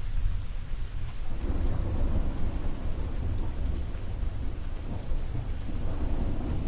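Steady rain with rolling thunder: a deep, continuous rumble under the hiss of the rain, which swells and grows fuller about a second and a half in.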